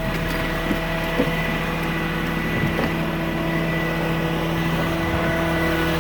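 Garbage truck's Caterpillar C7 diesel engine running steadily, with a thin high steady whine over it and a few faint knocks.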